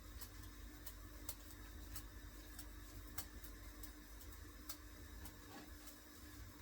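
Faint, irregular light clicks, a few seconds apart at most, over a low steady hum.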